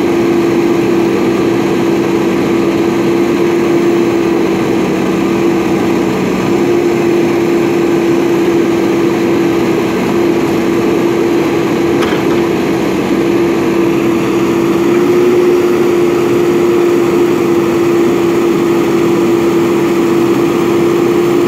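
Diesel engine of a JCB backhoe loader running steadily, with a strong constant hum; a lower tone in it drops out about six and a half seconds in.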